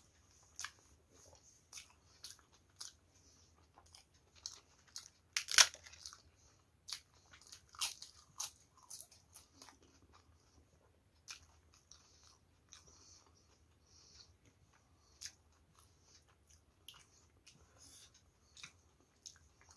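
Close-up mouth sounds of a person eating by hand: chewing, with many short crunches, the loudest about five and a half seconds in.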